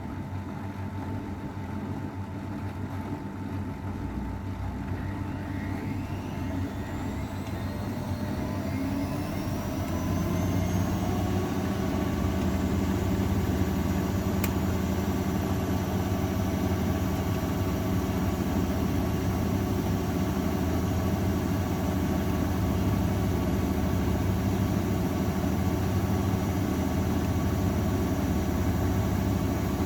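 AEG Öko-Lavamat 693 washing machine spinning up for its final spin: its motor whine rises in pitch over about six seconds, then holds steady and louder at full spin speed. A single short click about halfway through.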